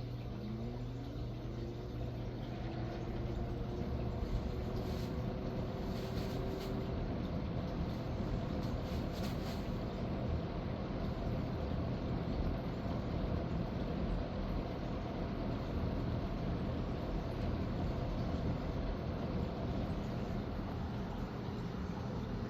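1981–82 Galaxy 20-inch box fan, model E20739 with a plastic-housed 2.2 A motor, starting up on low. A motor whine rises in pitch over the first second or two, levels off and fades after several seconds, under a steady rush of air from the blades.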